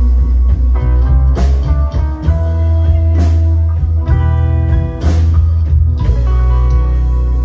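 A band playing an instrumental passage, with electric guitar chords over a heavy bass line and a drum kit striking every second or two.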